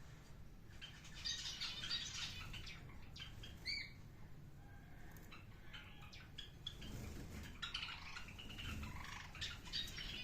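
Pet birds chirping and chattering in two spells, the first about a second in and the second from about seven seconds in, with a short single call near four seconds in.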